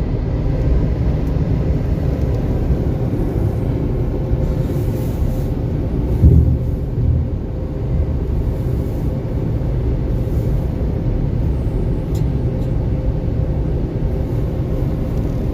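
Automatic car wash machinery running around the truck, heard from inside the cab as a steady low rumble, with a brief louder surge about six seconds in.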